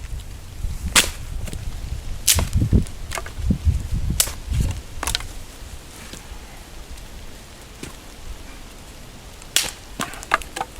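Dry branches being snapped by hand for firewood: a series of sharp cracks a second or so apart, with a quick cluster of cracks near the end and dull low thumps of handling wood in between.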